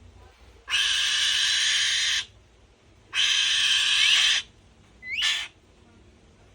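Falcon (alap-alap) giving three harsh screeching calls: two long ones of over a second each and a short one near the end.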